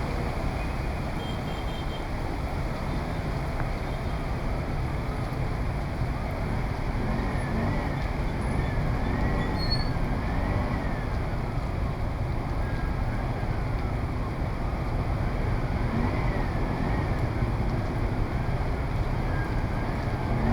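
Steady city street traffic noise, dense and unbroken. A faint wailing tone slides up and down a few times about a third of the way in and again later, like a distant siren.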